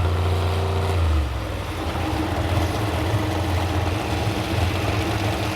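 Modified 4x4 pulling truck's engine running hard under load on the pull. About a second in, its tone and level drop, and it runs on rougher and more even.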